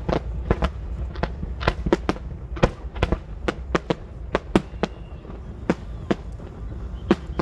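Fireworks going off: a rapid, irregular string of sharp bangs, about three a second, over a steady low rumble.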